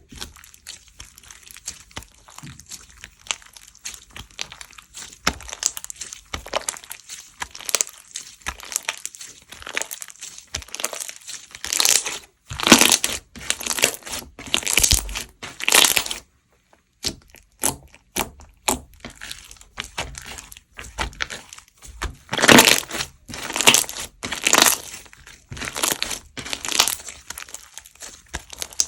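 Foam ball slime being squished and pressed by hand, with dense crackling and popping of the foam beads. Louder runs of crackling come about halfway through and again about three quarters in.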